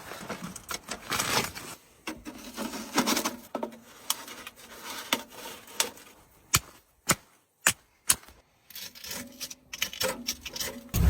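Firewood and kindling being handled and broken to get a fire going: irregular rubbing and scraping, with a few sharp cracks in the middle.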